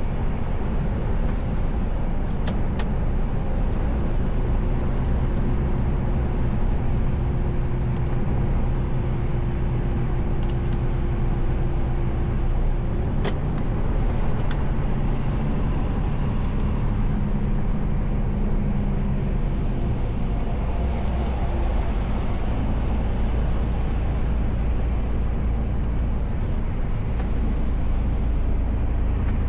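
Mercedes Actros L truck driving, heard from inside the cab: a steady low engine and road rumble, with a held tone for several seconds early on and a few sharp clicks.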